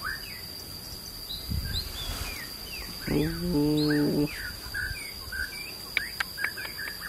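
Small birds chirping repeatedly in short, quick, falling chirps over a steady high-pitched tone. A little after three seconds in, a low, drawn-out, steady-pitched voice-like call lasts about a second.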